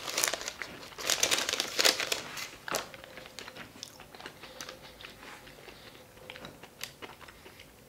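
Chewing a crispy fried pastry crust, with the paper sleeve around the pie crinkling in the hand. Dense crackling and crunching over the first three seconds, then only faint, scattered clicks of chewing.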